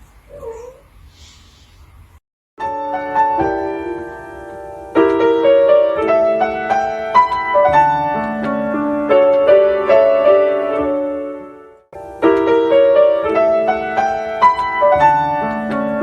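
Piano music, starting about two and a half seconds in, with a brief break about twelve seconds in before it picks up again. Just before the music, a short, faint cat meow.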